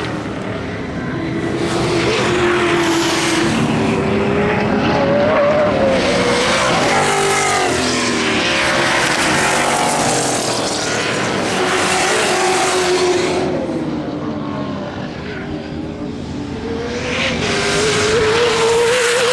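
Several racing muscle car engines running hard, their pitch rising and falling as they rev up and down through the gears, the sound swelling and easing a few times.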